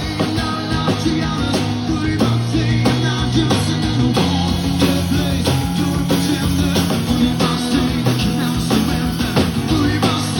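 Rock band playing live: guitar-led rock music with a steady beat.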